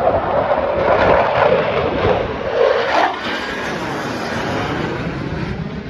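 Blue Angels fighter jet flying past with loud jet-engine noise. It swells to a peak about three seconds in, then drops and carries on lower as the jet moves away.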